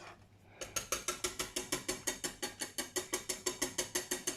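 Metal whisk beating a béchamel sauce in a saucepan, making a fast, even clicking of about eight strokes a second against the pan. It starts just under a second in.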